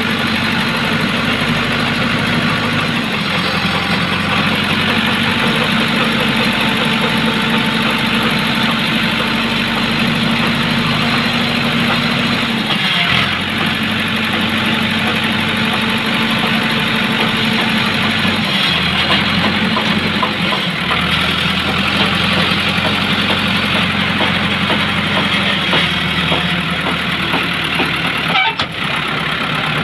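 Tractor engine running steadily at a low speed, its pitch stepping slightly up or down a few times.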